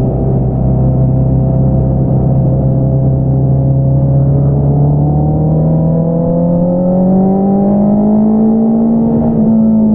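2022 Honda CBR650R's inline-four engine through an Akrapovič single-outlet exhaust, running steadily under way. About halfway through its pitch climbs gradually as the bike accelerates, then eases off slightly near the end.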